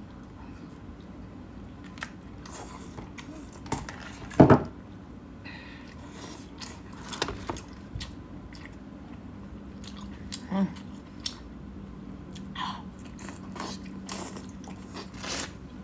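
Close-up eating of seafood: biting and chewing with scattered crunches and clicks, the loudest crunch about four and a half seconds in, over a low steady hum.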